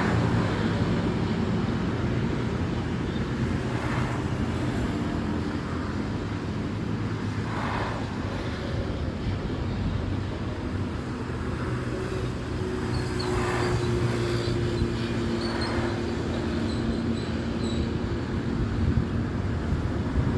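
A motor engine running steadily with a steady hum, with a few brief passing whooshes.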